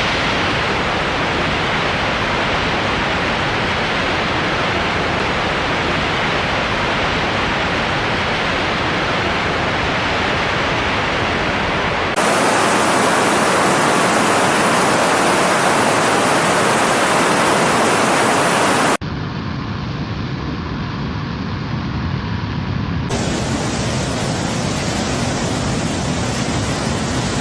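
Steady rushing noise of flowing floodwater, made up of several clips cut together. The sound changes abruptly about twelve seconds in, where it gets louder and brighter, and again about nineteen seconds in, where it gets quieter.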